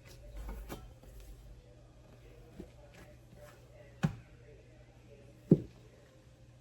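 Kitchen counter work while bagel dough is being divided: a brief soft handling rustle, then two sharp knocks on the countertop about a second and a half apart, the second the louder.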